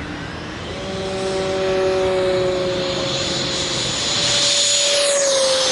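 A five-aircraft formation of an A-6, a P-51, a Typhoon and a Mirage flying past, their engines making a steady whine that grows louder about a second in. The pitch drops near the end as the formation passes by.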